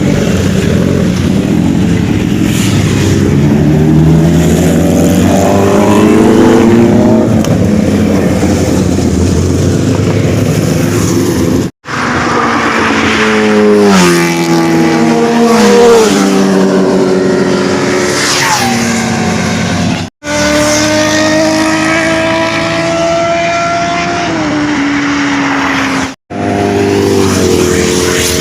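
Superbike engines running hard at speed, the pitch climbing under acceleration and falling back between gear changes and on deceleration. The sound cuts out abruptly three times, about 12, 20 and 26 seconds in.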